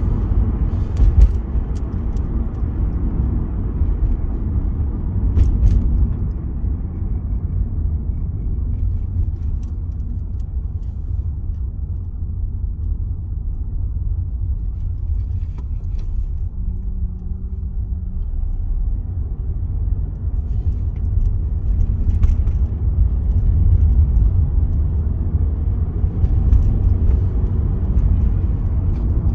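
Wind buffeting the microphone: a loud, deep rumble that rises and falls with the gusts, with a few faint clicks.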